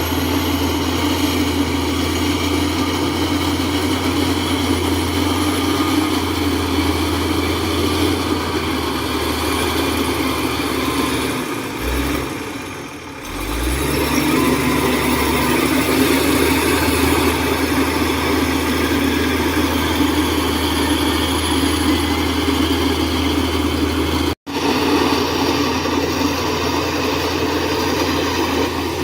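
Heavy diesel engine of construction machinery running steadily. About twelve seconds in it eases off and its low note shifts, then it comes back up about two seconds later. The sound cuts out for an instant a little after twenty-four seconds.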